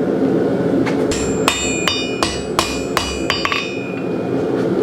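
Hammer blows on hot flat steel bar on an anvil, about ten strikes in quick succession with a metallic ring after each, bending the bar a little more to shape a door pull.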